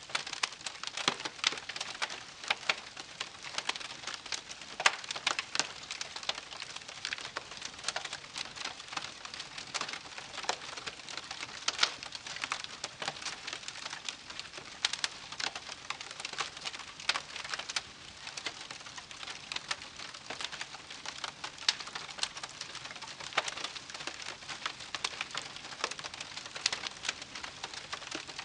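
Wood campfire crackling and popping: a dense, irregular run of sharp snaps over a steady soft hiss of burning.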